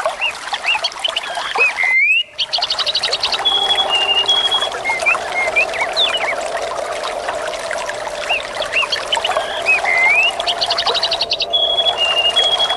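Steadily trickling stream water with birds chirping over it, including a rapid trill and a few short whistled notes. There is a brief dip in the sound about two seconds in and again near the end, and the same bird phrases repeat about nine seconds apart, as in a looped recording.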